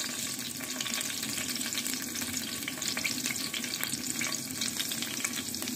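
Thin julienned ginger strips frying in hot oil in a pan: a steady sizzle with fine crackles, the first stage of a tadka (tempering).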